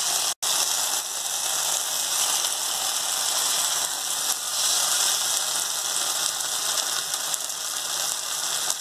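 Chicken leg pieces frying in oil in a nonstick pan, a steady sizzling hiss that drops out for a split second about half a second in.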